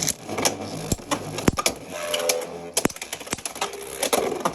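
Beyblade X spinning tops launched into the plastic stadium and clashing, an irregular run of sharp clicks and hard hits as they collide.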